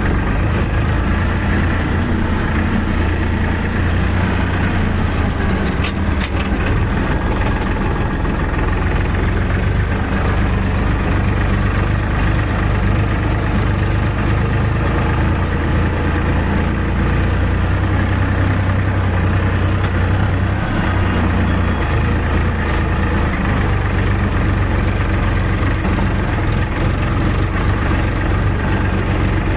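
Hyundai 85 excavator's diesel engine running steadily at work, a continuous low hum that swells and eases slightly.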